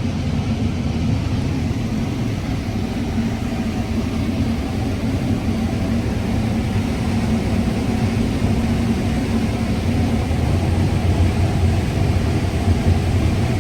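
John Deere combine running steadily while harvesting corn, heard from inside the cab as an even, low machinery drone.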